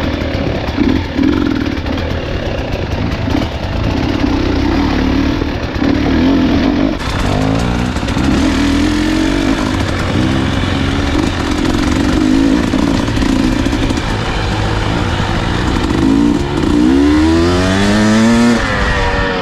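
Dirt bike engine running under changing throttle on a trail ride, its note rising and falling as the rider rolls on and off and shifts. Near the end it revs up in one long climb, then drops off.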